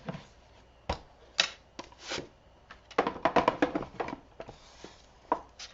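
Craft supplies being handled on a table: separate sharp clicks and taps, with a quick run of clattering from about three seconds in.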